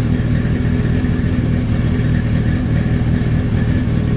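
Old four-cylinder motorcycle engine, fired through two ignition coils that each serve a pair of cylinders, running steadily at idle.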